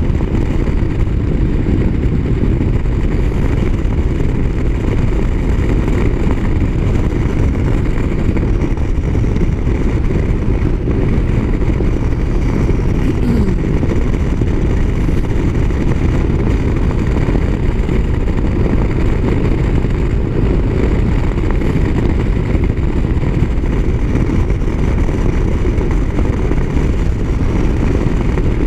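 Motorcycle cruising at steady highway speed, its engine and the wind rush making a loud, even, low noise throughout.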